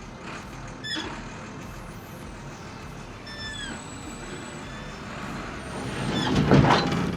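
Wheel loader running and manoeuvring, with a few short falling squeals from its disc brakes and a louder burst of noise about six and a half seconds in.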